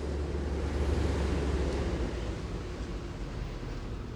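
Vehicle in motion: a steady low engine and road drone under a rushing wind and road noise, the low drone easing off a little about halfway through.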